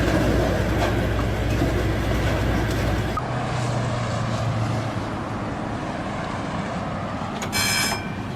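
Road vehicle and traffic noise from dash-cam footage, changing abruptly about three seconds in, with a brief high tone near the end.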